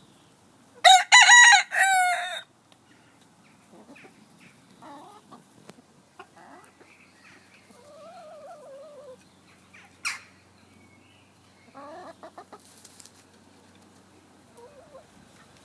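A rooster crows once, loud, about a second in, followed by softer, scattered clucking calls from chickens.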